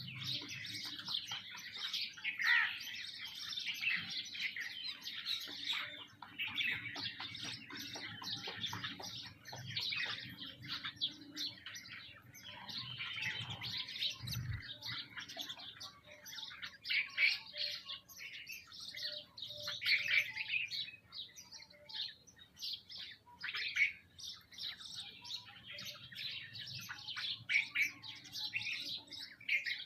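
A flock of sparrows and other small birds chirping and twittering continuously, many short calls overlapping.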